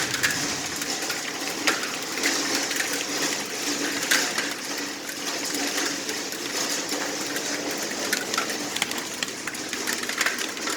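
Hail and heavy rain pelting down: a steady rush of rain with a dense patter of hailstones striking.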